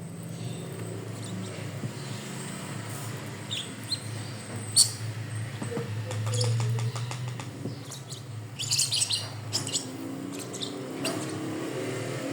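A pet bird giving short, high chirps at scattered moments, the loudest about five seconds in and a quick cluster around nine seconds, over a low steady hum.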